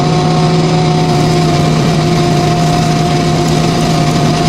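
A machine's motor running at a steady speed with an even, constant hum.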